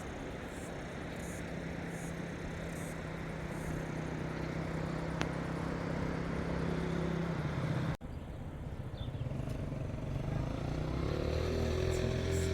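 A motor engine running steadily, slowly growing louder, with an abrupt break about eight seconds in, after which the engine sound returns and keeps rising.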